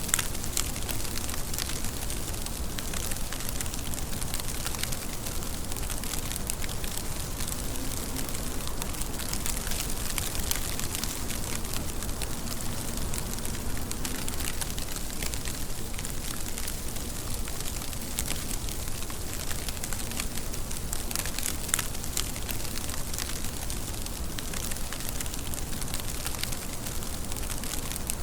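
Steady rain falling, an even hiss crowded with many distinct little drop ticks.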